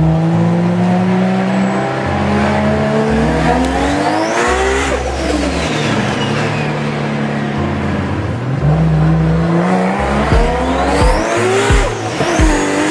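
Car engine accelerating hard, heard from inside the cabin, its revs climbing and dropping back several times as it shifts through the gears.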